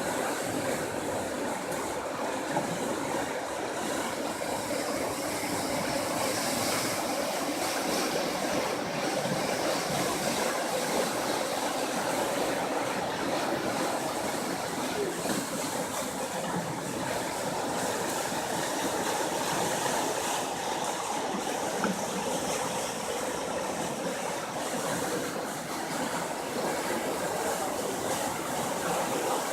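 Rushing water of a river swollen by heavy rain, a steady, even roar.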